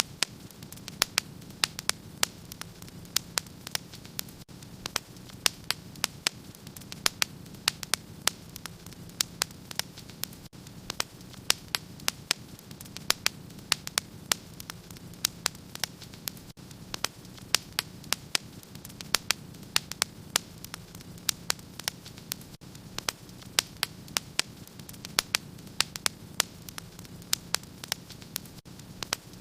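Wood fire crackling in a fireplace: sharp pops and snaps, several a second at uneven intervals, over a steady low rumble.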